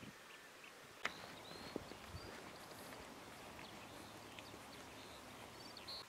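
Quiet outdoor ambience with several faint, short, high bird chirps, and a sharp click about a second in.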